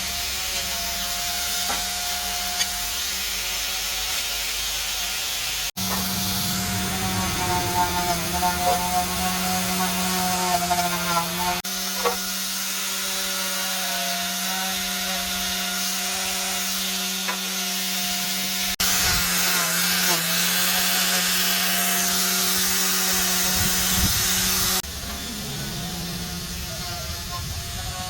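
Electric power tool motors running steadily with a rubbing, working noise. The sound comes as several separate clips cut together, each changing abruptly to the next.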